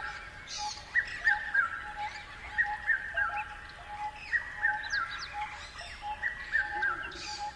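Birds calling in a wildlife soundscape. A group of three short falling notes repeats about every second and a half, over a steady pulsing lower tone, with scattered short high chirps.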